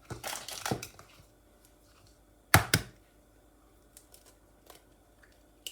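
Clatter of kitchen utensils and containers being handled on a worktop: a quick run of clicks, then two sharp knocks about two and a half seconds in, then a few light ticks.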